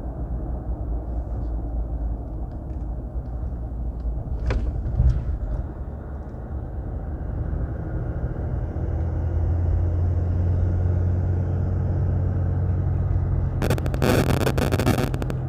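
A 2020 Ram's 3.0-litre EcoDiesel V6 turbodiesel, fitted with an aftermarket turbo inlet pipe, running as the truck is driven down the road. The engine note grows louder and steadier about halfway in, with a faint high hiss above it. There is a sharp knock about four seconds in and a burst of crackling noise near the end.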